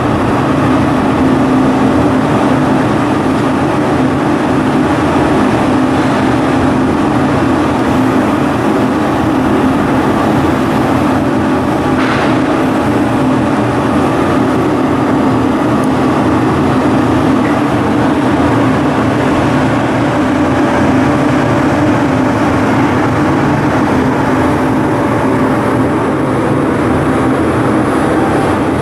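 Ship's diesel engine running steadily, a loud even mechanical hum with a strong low tone.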